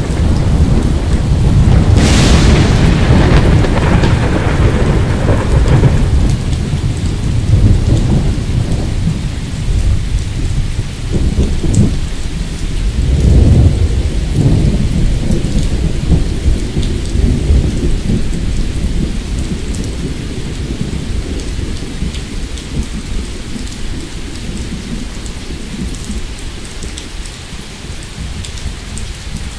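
Thunder over steady rain. A sharp crack comes about two seconds in, followed by long low rumbles that swell again around the middle and then slowly die away.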